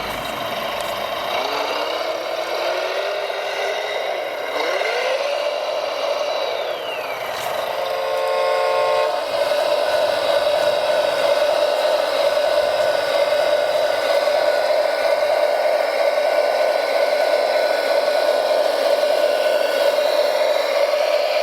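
Radio-controlled construction machines' electric drive motors whining, rising and falling in pitch. A short horn blast comes about eight seconds in, followed by a steady whine.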